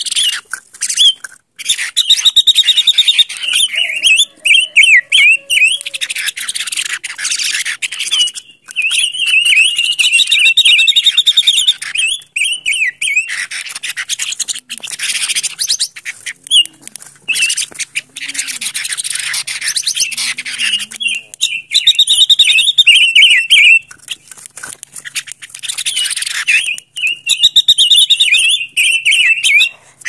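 Silver-eared mesia singing: bouts of quick, warbling whistled phrases with rapid trills, each lasting a few seconds, with short pauses between them.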